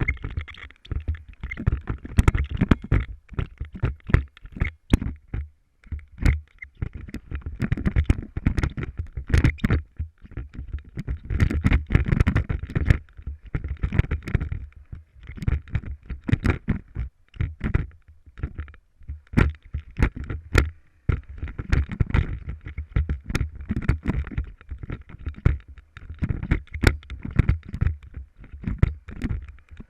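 Motorcycle ridden over rough ground: a continuous low rumble broken by many irregular knocks and rattles.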